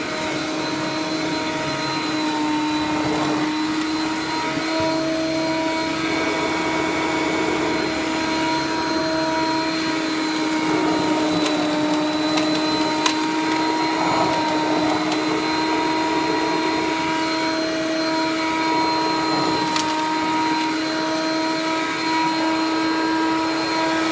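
Hoover Conquest upright vacuum cleaner running steadily with a constant motor whine, and a few sharp clicks partway through.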